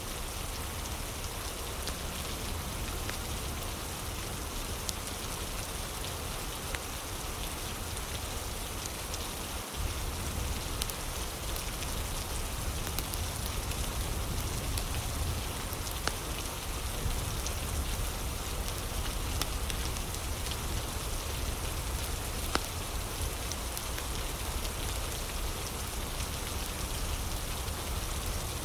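Steady rain mixed with a crackling fire that gives scattered sharp pops. There is a brief dropout about ten seconds in, after which the sound is a little louder.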